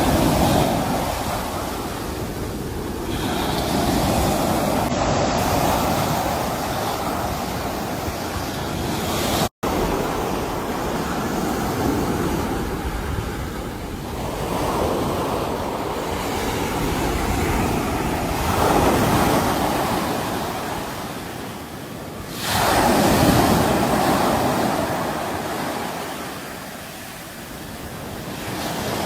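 Sea waves washing onto a shore, the surf swelling and falling back every few seconds, with the biggest surge about three-quarters of the way through. The sound cuts out for an instant about ten seconds in.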